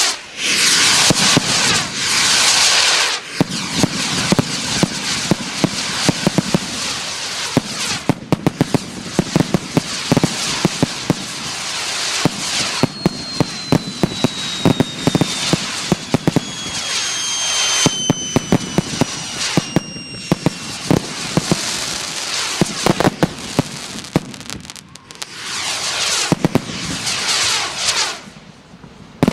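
Fireworks going off: a dense run of sharp crackles and bangs with hissing surges near the start and again near the end. Through the middle, long whistles slowly fall in pitch over the crackling.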